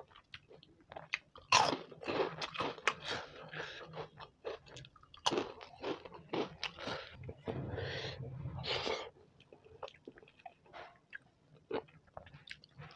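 Close-miked eating: a mouthful of food crunched and chewed in quick irregular crackles. The loudest crunch comes about a second and a half in, and the chewing turns sparser and quieter after about nine seconds.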